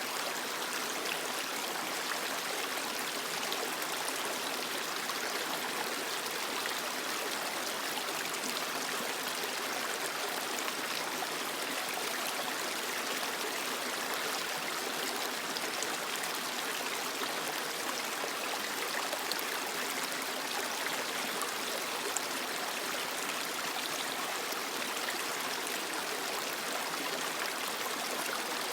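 Steady rush and babble of a small creek flowing over rocks, with no pauses or change in level.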